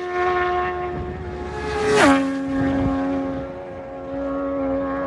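Racing sidecar outfits passing at speed on the TT course. Each engine holds a steady high note, then drops sharply in pitch at its loudest as it goes by: one is already receding at the start, and a second flies past about two seconds in.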